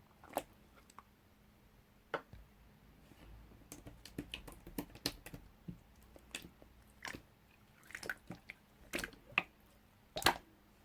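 Hands working soft modelling clay: irregular small squishes, taps and clicks, with a denser run of handling sounds after the first few seconds.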